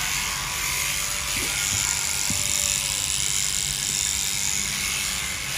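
Large electric sheep-shearing clippers running with a steady, even buzz.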